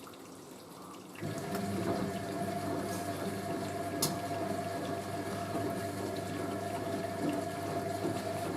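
Hoover A3060 Electronic 1100 washing machine filling: about a second in the water valve opens and hot water runs in steadily, a constant rush with a low hum and one held tone.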